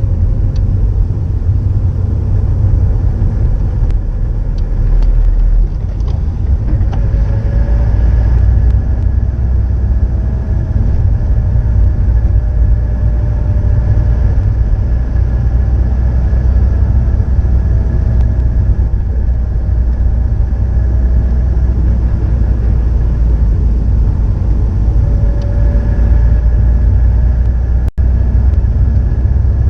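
Subaru Impreza WRX STI (GDB) turbocharged EJ20 boxer engine running through an STI Genome muffler, a steady, loud, deep exhaust rumble. The low note steps up slightly about five seconds in, and the sound cuts out for a split second near the end.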